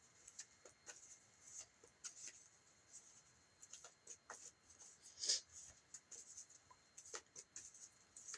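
Faint rustling and light clicks of tarot cards being handled and laid out, with one louder swish about five seconds in.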